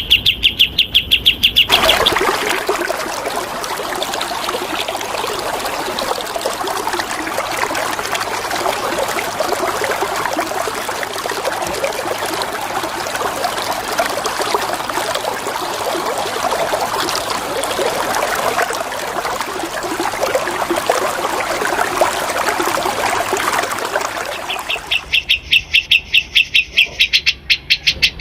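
Steady rush of flowing water. A bird's rapid trill of repeated high notes cuts off about two seconds in and starts again near the end.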